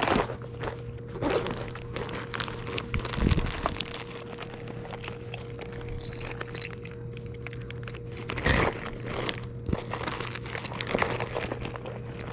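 Hands rummaging through fishing tackle: irregular crinkling, rustling and small plastic clicks, as a hook pack and tackle box are handled. A steady low hum runs underneath.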